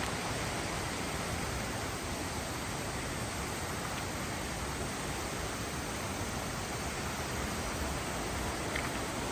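Mountain river water rushing steadily over rocks, an even hiss with no change.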